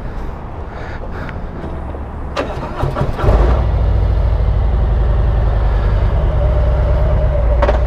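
Harley-Davidson Road Glide's V-twin engine starting about three seconds in, after a few clicks, then idling steadily.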